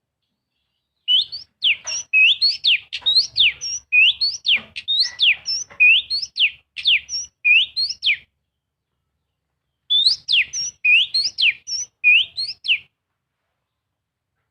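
Oriental magpie-robin singing: fast runs of loud, clear whistled notes that sweep up and down. There are two bursts of song, the second beginning about ten seconds in.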